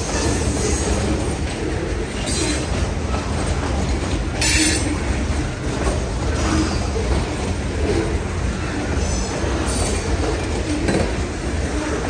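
Freight train hopper cars rolling past: a steady rumble of steel wheels on the rails, with brief high-pitched wheel squeals a few times.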